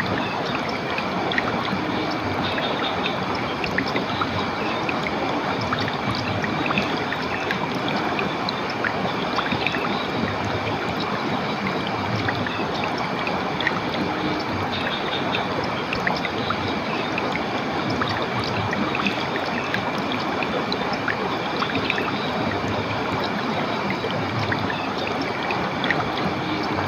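Clear running water from a stream or small waterfall, a steady unbroken rush and trickle, with a faint thin high tone and brief higher notes coming and going.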